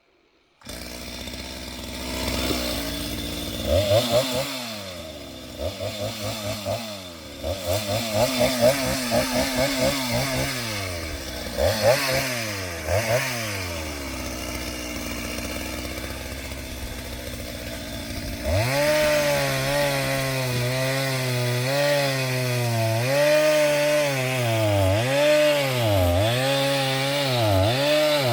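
Chainsaw engine revving up and down in repeated bursts, then from about two-thirds of the way in running at full throttle under load, its pitch dipping regularly as it cuts into a tree.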